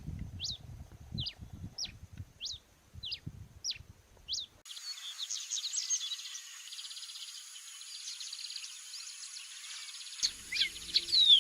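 Wild bird calling: a series of about eight sharp, falling chirps, roughly one every two-thirds of a second. About four and a half seconds in, the sound cuts to a denser chorus of high chirps over a steady high-pitched tone.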